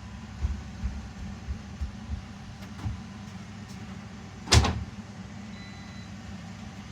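Robot vacuums running with a steady low motor hum, with a few soft bumps in the first few seconds and one sharp knock about four and a half seconds in.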